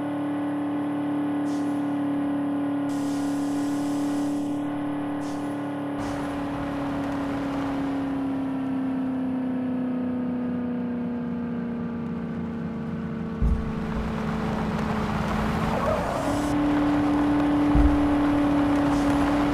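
A vehicle engine running at a steady speed, its pitch sagging slowly for several seconds, then a brief rougher surge before it settles back to its first pitch. A few short low thumps come near the end.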